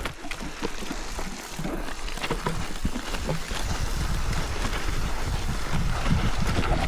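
Mountain bike riding down a dirt trail: wind buffeting the camera microphone in a low rumble, with tyres crackling over the ground and the bike rattling in many small clicks.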